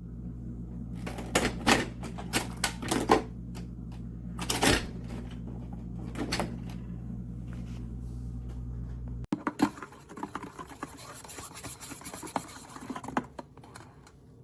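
Nespresso Vertuo Next coffee machine running with a steady low hum, with sharp clicks and clatter of handling over it. The hum stops abruptly about nine seconds in, leaving irregular rattling and clattering.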